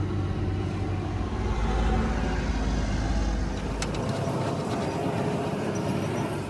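A motor vehicle's engine running as a low, steady rumble that drops away about four seconds in, with a couple of sharp clicks just before.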